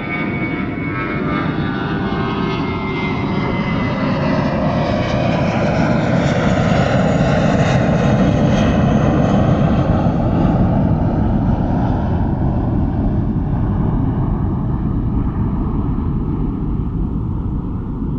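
Jet airplane taking off: dense engine noise swells to a peak about halfway through and then slowly fades as the plane moves away. In the first few seconds a whine falls in pitch.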